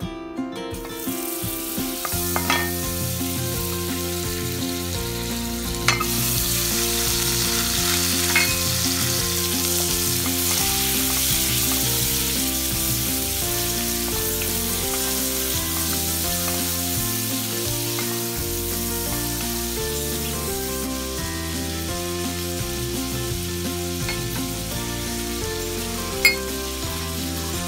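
Diced onion sizzling in hot oil in a pot while being stirred with a wooden spatula, which knocks against the pot a few times. The sizzle builds about a second in and is loudest in the middle.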